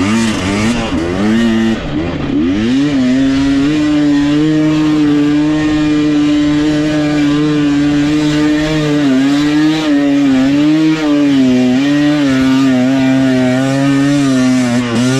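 Dirt bike engine revving up and down for the first few seconds, then running at steady high revs with small brief dips in the second half.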